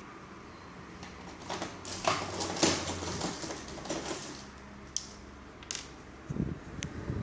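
Clatter of small hard parts being handled during laptop disassembly: a run of rattling clicks, then a few single sharp clicks and two dull knocks near the end.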